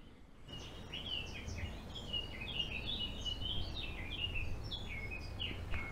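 Blackcap singing: a continuous, fast warble of quick, varied high notes that starts about half a second in, over a faint low background rumble.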